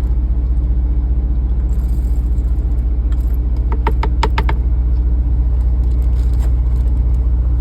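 Semi-truck diesel engine idling with a steady low hum. About four seconds in comes a quick run of five or six light clicks and clinks.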